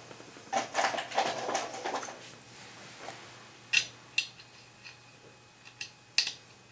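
Small metal objects clattering and clinking for about two seconds, then three separate sharp metallic clicks, each with a short ring.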